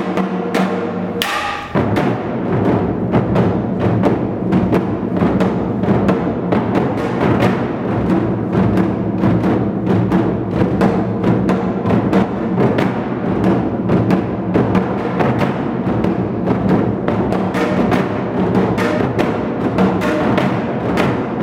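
Ensemble of Korean moduk-buk barrel drums played with sticks. Steady held tones open it, a bright crash comes about a second in, and then fast, dense drumming runs on without a pause.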